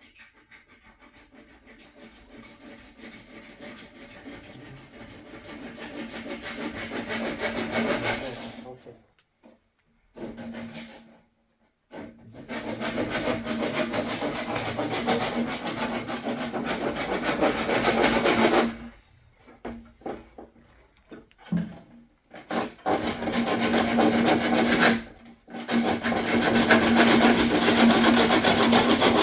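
Rapid scraping and rasping of a tool working a hard material. It comes in several runs of a few seconds each, broken by short pauses, and some runs grow louder as they go on.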